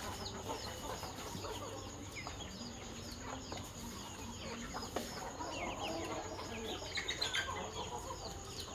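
Flock of chickens clucking at feeding time, over a steady run of high, short peeping calls repeating about three times a second, busier a couple of seconds before the end.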